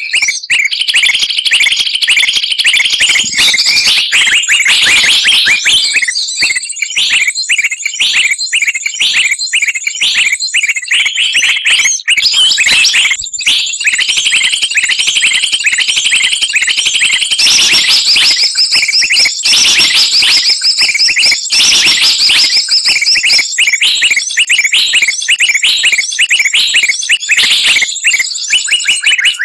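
A dense chorus of many small songbirds chirping and trilling rapidly at once, without pause: a mixed-species bird-lure recording.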